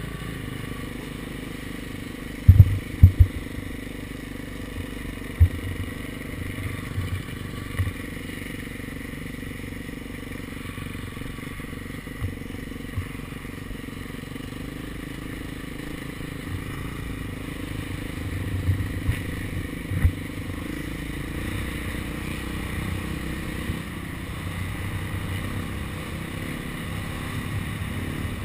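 KTM SX250F four-stroke single-cylinder dirt bike engine running steadily under way on a motocross track. Several heavy low thumps break through it, the loudest a cluster about two and a half to three seconds in and another pair around eighteen to twenty seconds in.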